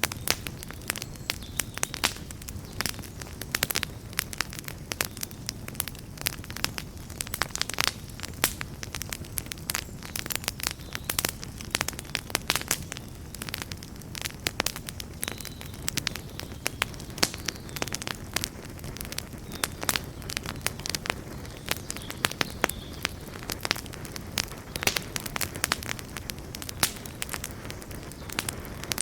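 Campfire burning with dense, irregular crackles and pops of burning wood over a low steady rumble of flame.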